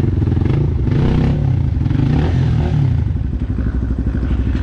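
Dirt bike engine running close by, its revs rising and falling a few times.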